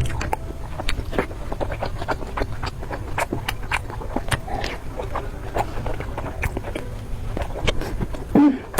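Someone eating: irregular clicks and smacks of chewing and biting over a steady low rumble.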